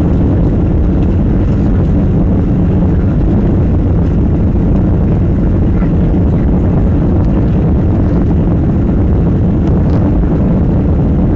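Steady, loud rumble of a Boeing 737-800 heard from inside the passenger cabin: engine and airflow noise with no distinct events.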